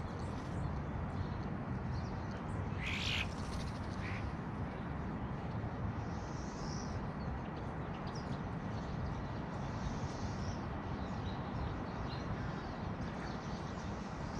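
Birds calling outdoors: one loud call about three seconds in and a shorter one about a second later, then faint high calls, over a steady low background rumble.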